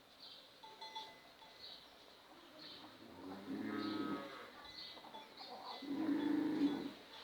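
A cow mooing twice, two low calls of about a second each, the second a little louder. Faint high chirps repeat in the background.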